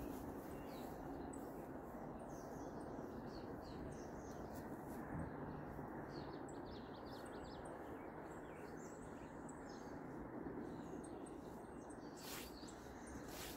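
Wild birds chirping with many short, high calls over a steady low background noise, with a couple of brief rustles near the end.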